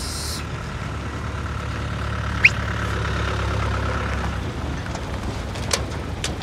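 A heavy engine idling steadily with a low hum, broken by one short rising squeak about two and a half seconds in and a couple of sharp clicks near the end.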